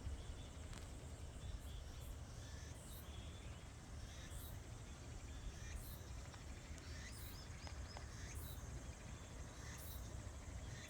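Faint outdoor ambience: a steady low rumble of wind on the microphone. Over it, a very high insect chirp repeats about once a second, with a few small bird chirps about seven seconds in.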